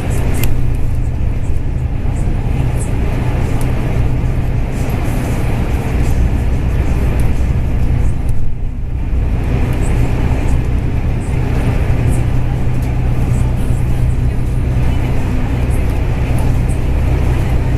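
Inside a Dennis Trident double-decker bus on the move: the diesel engine runs with a steady low drone under road and cabin noise, with a brief dip about eight and a half seconds in.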